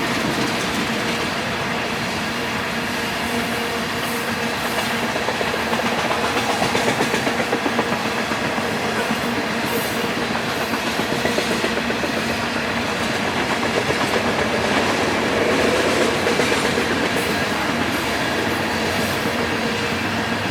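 Freight train of tank cars rolling steadily past, with a continuous rumble of wheels on rail and rhythmic clickety-clack over the rail joints.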